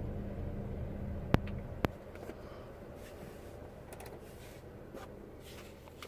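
Peugeot RCZ's 1.6 THP turbo petrol four-cylinder idling with a steady hum. Two sharp clicks come about a second and a half in, and after them the engine sound is quieter.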